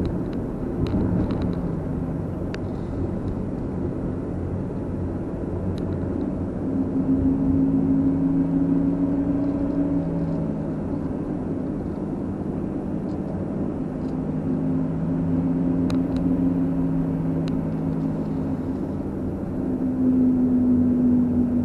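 Car driving: steady road and engine rumble, with a low hum from the engine that swells and fades about three times.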